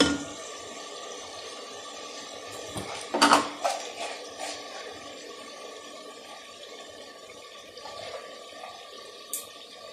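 Onion-tomato masala sizzling and bubbling steadily in an aluminium pressure cooker as it is fried down, with a brief knock about three seconds in.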